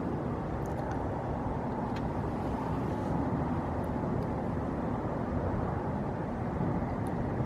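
Steady road traffic noise, a continuous even rumble of passing vehicles.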